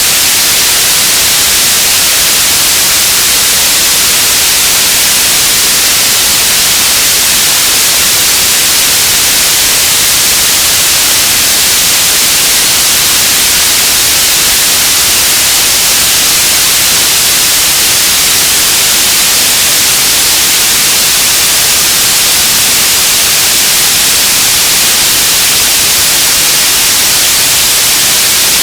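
Radio static: a loud, steady hiss, strongest in the highs and unchanging throughout.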